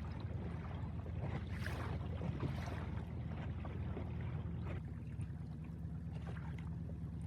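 Small outboard motor on a dinghy running steadily underway, a low even hum, with faint water noise over it.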